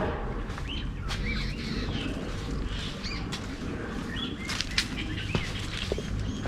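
Forest birds giving many short chirping calls, over scattered sharp crackles and rustles of footsteps on a leafy trail.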